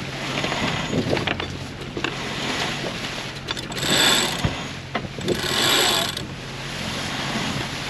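Sailboat deck winch ratcheting and lines running through blocks as the spinnaker halyard is hauled up, with two louder rushing surges a little past the middle, over the steady hum of the boat's engine.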